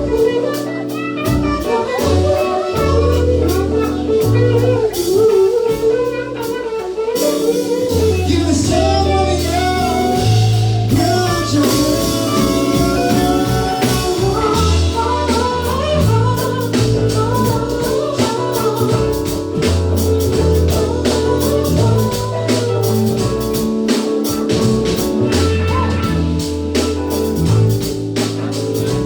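Live cover band playing a song with a lead singer: sung vocals over bass notes and a drum kit beat.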